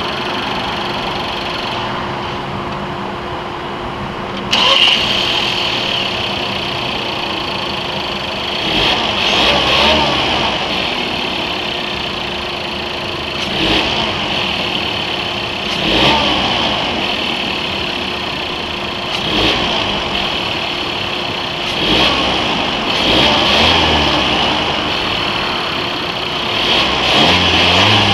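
Volkswagen Tiguan's turbocharged inline four-cylinder engine: a sudden jump in level about four and a half seconds in, like the engine catching, then running with several brief rises in engine speed every few seconds.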